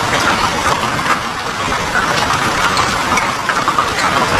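A heavy fall of rain or ash hitting a paved road: countless small impacts merging into a steady hiss, with sharper ticks scattered through it.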